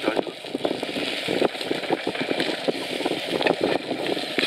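Wind blowing across the microphone, a rough crackling noise.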